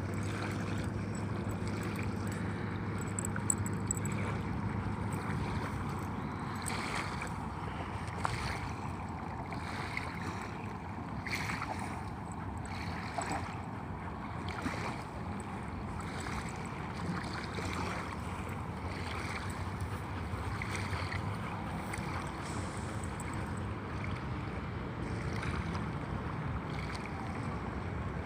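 Shoreline ambience: steady wind and water lapping at the water's edge.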